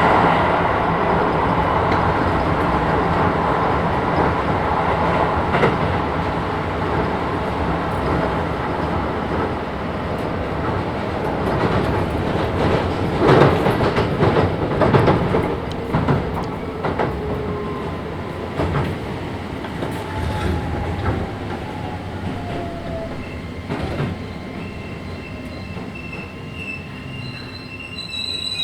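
Keisei 3000-series electric train heard from inside the car, rolling on the rails with wheel noise, rail-joint clicks and some wheel squeal, getting quieter as it slows. A falling whine from the Toyo IGBT-inverter traction motors under braking about two-thirds of the way through; steady high tones start near the end.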